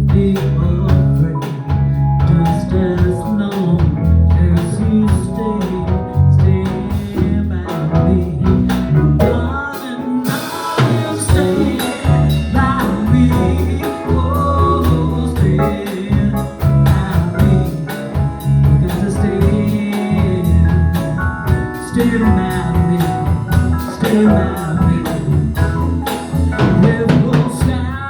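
Live band music: a drum kit and bass guitar keeping a steady beat under melodic instrument parts.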